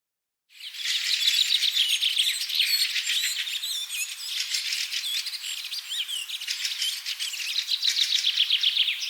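A flock of small birds chirping and calling all at once in a dense, continuous chatter of short high chirps, starting about half a second in.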